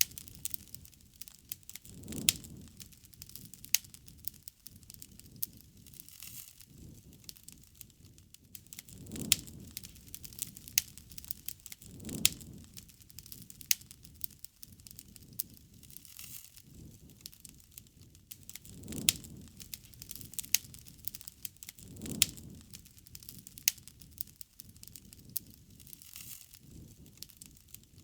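Wood fire crackling, with sharp irregular snaps and pops throughout and a soft low rush that swells every few seconds.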